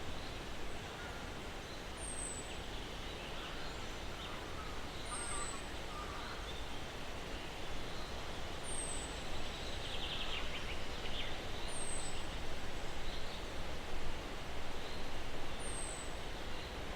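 Steady breeze through pine trees, with a bird repeating a short, high, falling call every three to four seconds. Fainter bird chirps sound in the background, with a brief trill about ten seconds in.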